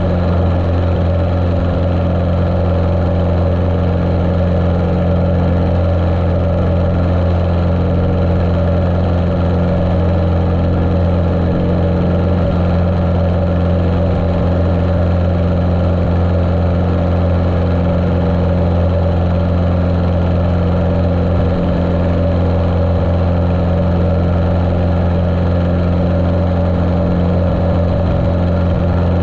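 Cessna 150L's four-cylinder Continental O-200 engine running steadily, heard muffled through a GoPro's waterproof case.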